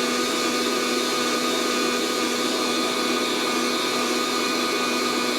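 Fresh Roast SR 800 hot-air coffee roaster running mid-roast, before first crack: its fan blows an even rush of heated air through the tumbling beans, with a steady hum underneath.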